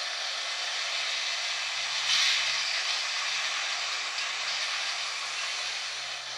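Fleischmann N-scale model of a 'Taigatrommel' diesel locomotive running with a train of tank wagons: a steady rolling hiss of the small wheels and motor on the track, with a faint low hum, briefly louder about two seconds in.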